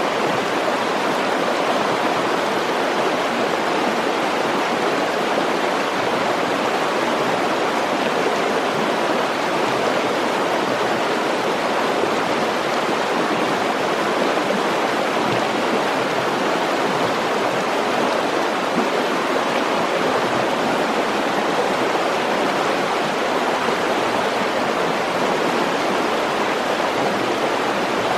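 Mountain stream rushing over rocks, a steady, unbroken water noise.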